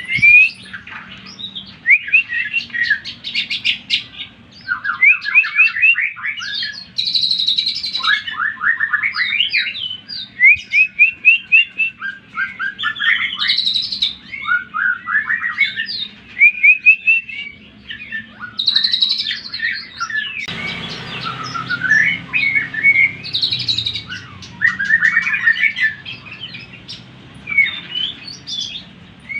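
A green leafbird (cucak ijo) singing a fast, varied song of chirps, whistled slurs and rapid trills of repeated notes, broken by short pauses.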